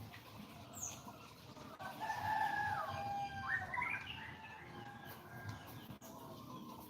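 Birds calling: a run of whistled calls with pitch glides, lasting about two and a half seconds from about two seconds in.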